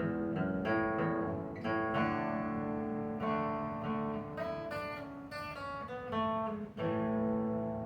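Acoustic guitar played as an instrumental passage, chords strummed and left to ring between strums.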